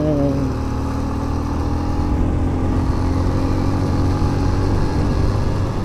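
Motorcycle engine dropping in pitch as it eases off in the first half-second, then running at a steady low hum, with wind and road noise rushing past.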